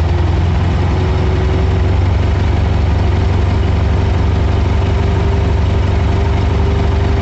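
Air-cooled VW flat-four engine running steadily at a raised idle of about 1500 rpm, with the vacuum advance connected, held there for an ignition-timing check.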